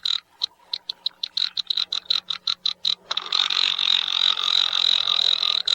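Great frigatebirds calling at a display colony: a rapid series of high-pitched pulses, about six a second, that merges into a continuous rattling trill about three seconds in.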